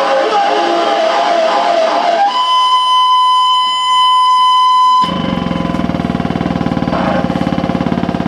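Live harsh-noise improvisation through distortion and effects units: a dense, wavering distorted wash, then about two seconds in a steady high whine with overtones that holds for about three seconds. It cuts off suddenly into a low buzzing drone that pulses rapidly.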